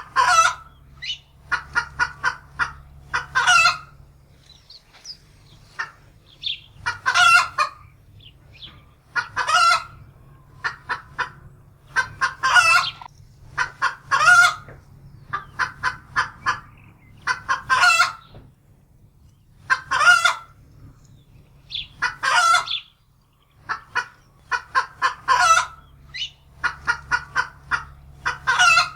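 Domestic hen cackling in alarm after sighting a wildcat. She gives runs of quick short clucks, each ending in a long, loud squawk, over and over every two to three seconds.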